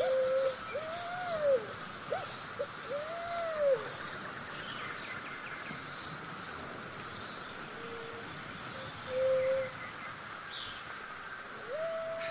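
Forest ambience with a bird repeating a low call that rises and falls, several times in the first four seconds and again near the end, with a few shorter flat notes between, over a steady background hiss.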